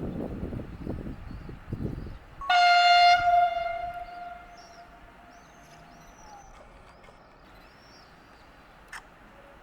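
A train horn sounds one long single-tone blast about two and a half seconds in, loud at first and then fading, after a few seconds of low rumbling. Small birds chirp faintly afterwards.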